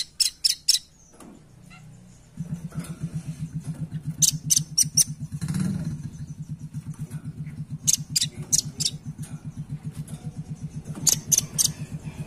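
Velvet-fronted nuthatch calling in short, rapid runs of sharp high notes, about four runs a few seconds apart. From about two seconds in, a low, fast, even pulsing runs underneath.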